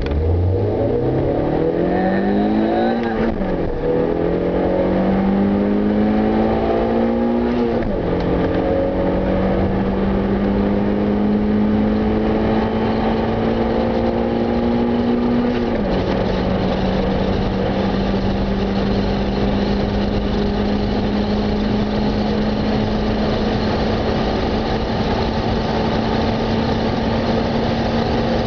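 Nissan 100NX GTI's 2.0-litre SR20DE four-cylinder engine under full-throttle acceleration from a standstill, heard from inside the cabin. The engine note climbs high in each gear and drops sharply at three upshifts, about 3, 8 and 16 seconds in, then rises slowly through the top gear towards about 180 km/h.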